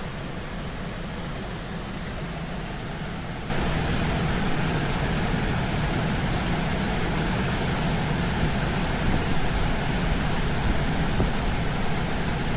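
A steady rushing noise with no distinct events, which steps up louder about three and a half seconds in.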